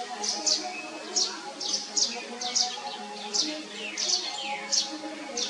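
A bird chirping: a quick series of short, high chirps, each sliding downward in pitch, about two a second, over a steady low hum.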